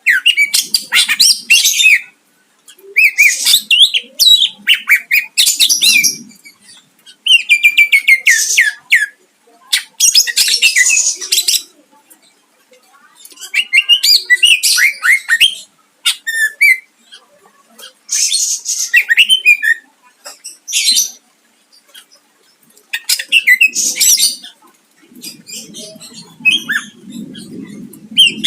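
Cucak ijo (green leafbird) singing in repeated bursts of rapid, high, sweeping and chattering notes, each phrase a second or two long with short pauses between, the varied 'full isian' song used to provoke rival cucak ijo.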